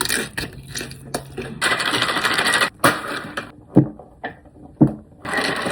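Close-up eating sounds: crunching and rustling, with a longer noisy crunch about two seconds in and a few sharp clicks after it.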